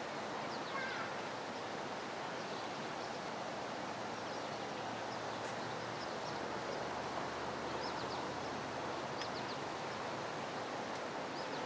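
Steady rushing noise of water churning in the lock chamber as it fills to raise the ship, with a few faint bird chirps.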